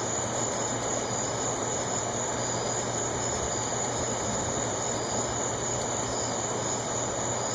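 A steady chorus of night insects: a continuous high trill with faint, evenly repeated chirps, over a steady low hiss.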